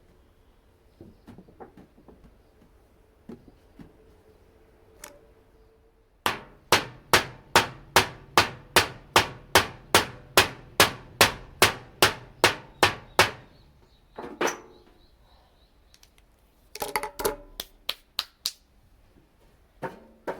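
Hammer driving a flathead screwdriver through the thin metal of a rice-cracker tin to punch holes: a steady run of about eighteen sharp, ringing blows at a little over two a second, then one more blow and a quick cluster of blows a few seconds later. Faint clicks and taps come before the hammering starts.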